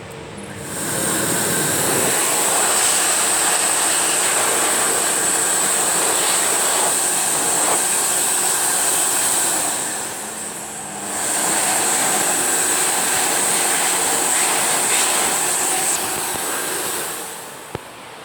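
Electric hand dryer blowing in two runs: a steady rush of air with a high motor whine, cutting out for about a second midway and stopping shortly before the end.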